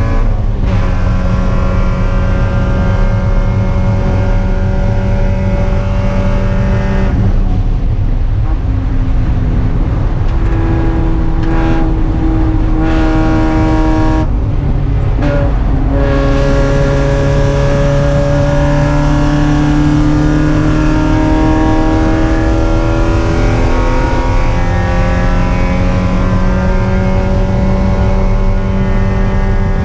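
Spec Miata race car's four-cylinder engine running hard at racing speed. The engine note eases off briefly about 7 seconds and about 14 seconds in, as on throttle lifts, then climbs steadily in pitch under acceleration.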